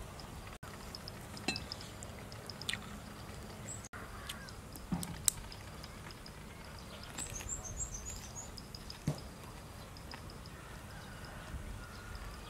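Mouth sounds of eating grilled octopus wrapped in fresh leafy vegetables: soft crunching and wet chewing, with scattered clicks and light taps. A quick run of high bird chirps comes about seven seconds in.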